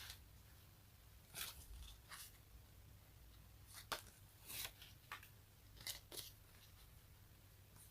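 Sticky surfaces being pulled apart in short, separate peels, about seven in all, with one sharp click near the middle.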